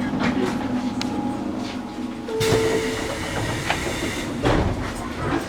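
JR Kyushu 813 series electric multiple unit running on the line, heard from the driver's cab, with wheels clacking over rail joints every second or so.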